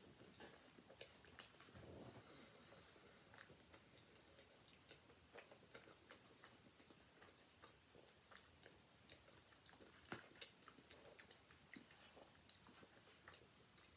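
Faint chewing of a mouthful of bacon cheeseburger: soft, irregular wet mouth clicks and smacks, with a sharper click about ten seconds in.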